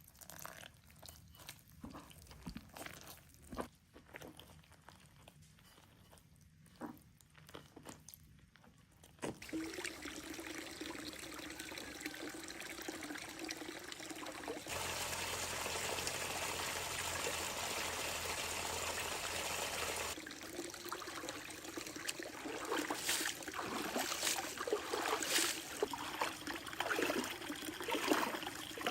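Running water that starts suddenly about a third of the way in, pouring louder for a few seconds in the middle and then trickling and splashing unevenly. Before it there are only faint scattered clicks.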